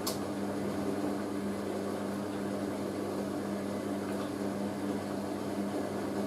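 Hoover A3060 Electronic 1100 washing machine running at the end of its cycle, its motor giving a steady even hum. A short sharp click sounds right at the start.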